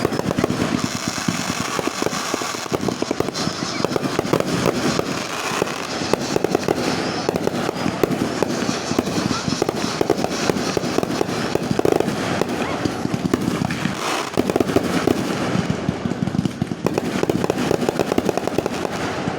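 Fireworks going off, a dense, continuous run of rapid pops and crackles like strings of firecrackers.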